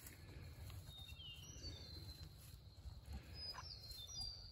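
Quiet pasture ambience with faint bird chirps: short high notes that slide down in pitch, a few about a second in and a cluster near the end, over a low steady rumble.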